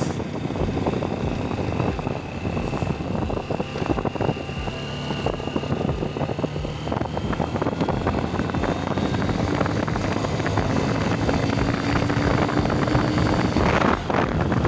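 Honda Shine 125 motorcycle's single-cylinder engine running steadily while the bike is ridden, with a steady rush of road noise. Its note climbs slowly about two-thirds of the way through, and a brief louder rush comes near the end.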